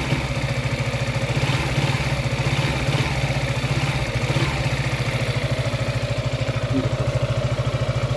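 Yamaha X-Max 300 scooter's single-cylinder four-stroke engine idling steadily with an even pulse. It runs smoothly now that the loose bolt inside the engine, the cause of its noise, has been refitted.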